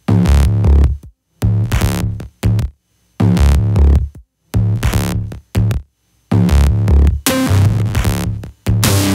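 Electronic dance track with a heavy drum-machine bass beat, played loud over a competition sound system. It comes in short stop-start bursts cut off by sudden silences, then runs on unbroken for a couple of seconds near the end.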